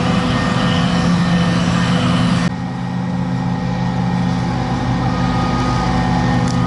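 Heavy diesel farm machinery running steadily at work chopping maize for silage. About two and a half seconds in, the sound changes abruptly, losing much of its high hiss.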